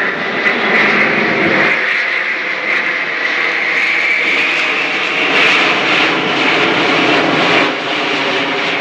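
Airbus A380's four turbofan engines during a slow, high-angle-of-attack flypast: a loud, steady jet roar with a whine that rises slightly in pitch around the middle, then eases.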